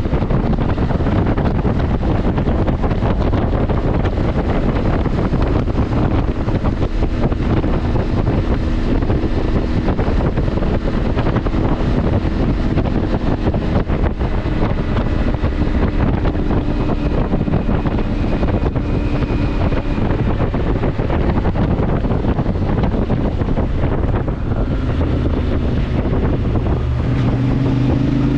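CFMoto motorcycle running on the road under heavy wind noise on the microphone; the engine pitch rises near the end as it accelerates.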